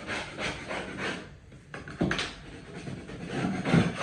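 A blade scraping loose debris off damaged drywall in a series of irregular strokes, loudest near the end.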